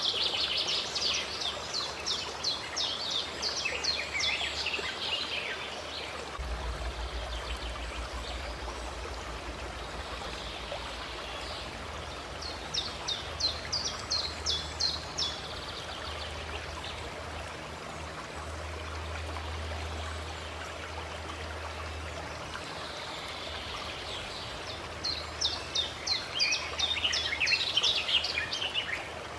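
Steady rush of running water with a small songbird singing three phrases of rapid, high chirping notes: one at the start, one about halfway through and one near the end.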